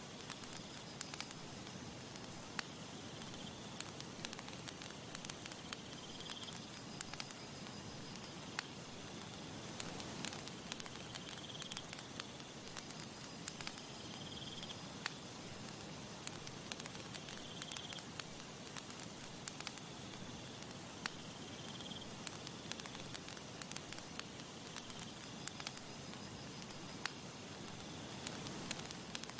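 Campfire crackling, with frequent sharp pops and snaps over a soft steady hiss. Short high chirps come every few seconds, and a faint high whine runs for a few seconds in the middle.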